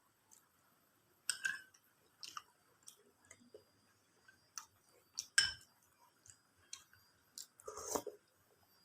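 A person chewing a mouthful of chicken biryani close to the microphone, with scattered short wet mouth clicks. A sharp, loud click comes about five and a half seconds in, and a longer chewing burst near the end.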